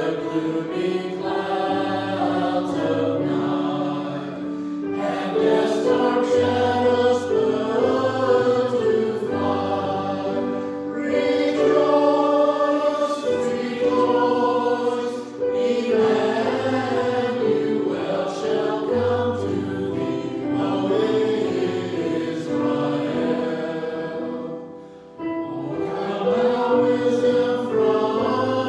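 Church choir singing a hymn with accompaniment in sustained, held chords, with a brief pause between phrases about 25 seconds in.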